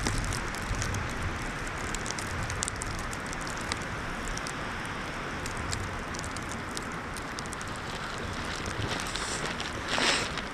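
Steady wind with fine, irregular crackling from a plastic trash bag worn as a wrap. A brief louder rustle or gust comes near the end.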